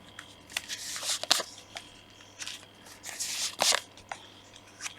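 Tarot cards being shuffled and handled: scattered papery snaps and short swishes, with the loudest bursts about a second in and again past the middle.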